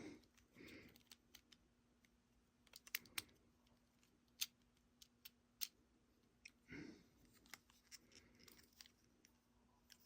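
Mostly quiet, with scattered small clicks and taps of a toy train's plastic and metal parts being handled, a few close together about three seconds in.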